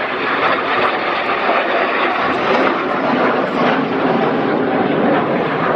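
Steady jet noise from Red Arrows BAE Hawk T1 jets flying a display manoeuvre.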